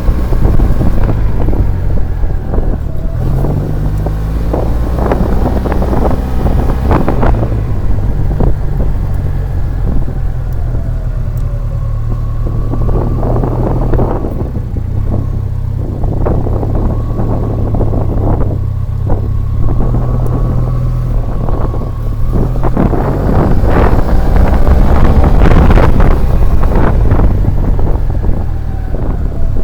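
SYM Maxsym TL 500 maxi-scooter's 465 cc liquid-cooled parallel-twin engine and exhaust on the move, its low note shifting up and down with the throttle, with wind gusting on the microphone. It gets loudest about three-quarters of the way through.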